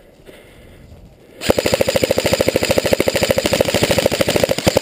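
Airsoft electric gun (AEG) firing a long full-auto burst: a rapid, even stream of sharp shots that starts about a second and a half in and keeps going.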